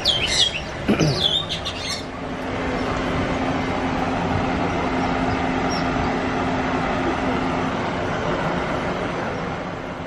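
Small aviary birds chirping in quick, rising calls, with a short squawk about a second in. After about two seconds the chirps give way to a steady, even rushing noise with a low hum under it.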